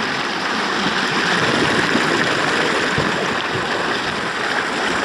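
River water rushing steadily around a bamboo raft in shallow rapids, an even, unbroken wash.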